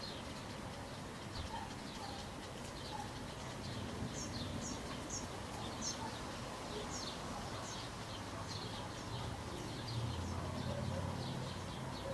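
Small birds chirping in short, high, repeated chirps, several a second at times, over a steady outdoor hiss. A low hum comes up about three-quarters of the way through.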